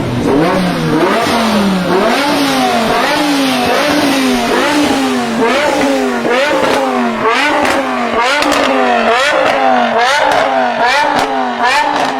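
BMW performance car engine revved up and down over and over in a steady rhythm, each rise and fall taking well under a second, with sharp cracks in the second half.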